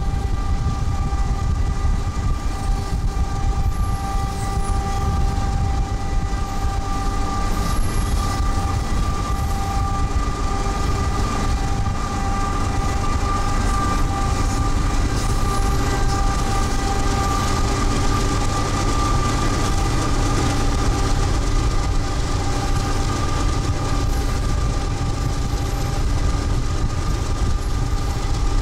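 GE ES44AC diesel locomotive and its freight train running at speed, heard from a car pacing alongside: a heavy steady rumble with steady high whining tones over it.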